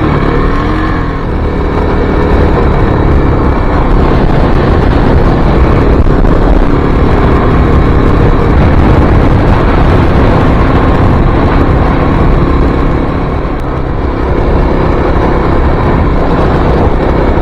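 2023 Kawasaki KLX-300's single-cylinder four-stroke engine running as the dirt bike is ridden, rising in pitch near the start as it accelerates, then holding a steady, loud drone.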